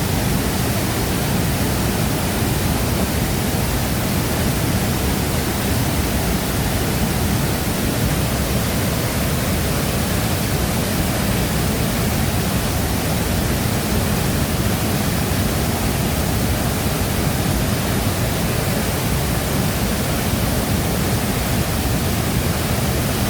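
Steady, continuous rush of water from the Shifen Waterfall, a dense even roar with most of its weight in the low end.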